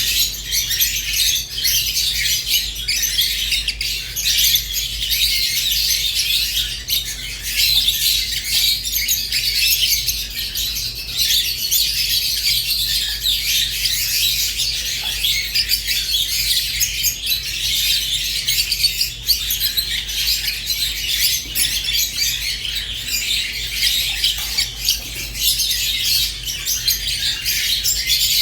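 Rosy-faced and Fischer's lovebirds chirping and chattering together in a dense, unbroken stream of high tweets and squawks.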